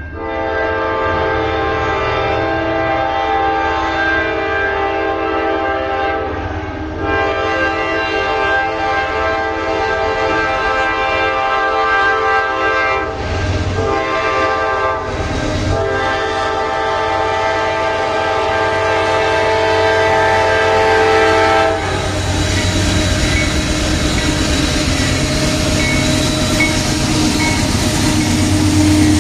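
Freight locomotive horn blowing a multi-note chord in a series of blasts: two long, a short one, then a final long one, the pattern of a grade-crossing signal. It stops about three quarters through. Then the lead Norfolk Southern AC44C6M diesel locomotives pass close by with a loud engine rumble and wheel-on-rail noise.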